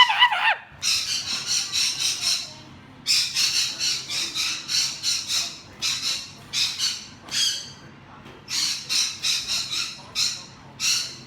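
A bird squawking in rapid runs of short, shrill calls, about five a second, in three long bouts with brief pauses between them.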